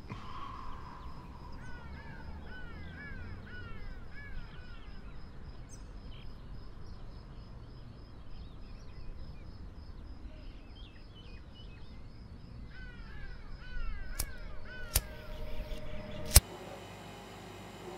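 Outdoor ambience with a bird giving two runs of quick, repeated calls, about two a second, one early and one late. Near the end come three sharp clicks, the last one the loudest, and after it a low steady hum.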